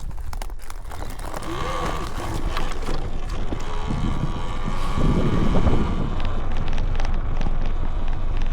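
Talaria Sting R MX4 electric dirt bike riding over a dry lake bed, heard from its handlebars: wind rushing over the microphone and a steady tyre rumble, with scattered rattling clicks from bumps. It grows somewhat louder about halfway through.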